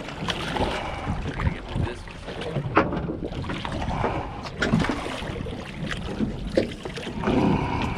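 Wind on the microphone and water against a small boat's hull, with scattered sharp knocks of gear being handled on deck.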